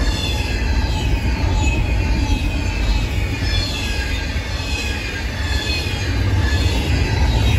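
Double-stack intermodal freight cars rolling past close by: a steady low rumble of steel wheels on rail, with short high-pitched wheel squeals that fall in pitch as the cars go by.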